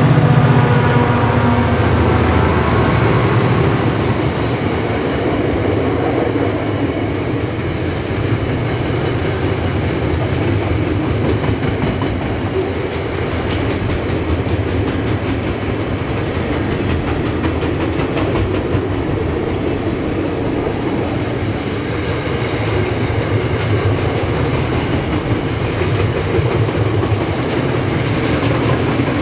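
Diesel-hauled freight train passing close by: the locomotives' engine note fades over the first few seconds, then the wagons roll past with steady wheel noise and occasional clicks.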